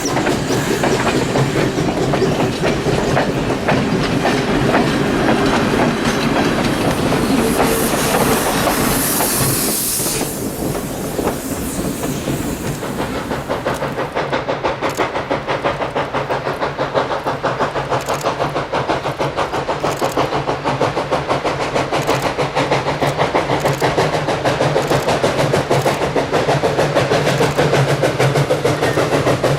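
Everett Railroad 2-6-0 steam locomotive No. 11 and its train running, a loud steady rumble and clatter of the moving train. A burst of hiss comes about eight to ten seconds in, and in the second half a fast, even clatter of wheels over the rails.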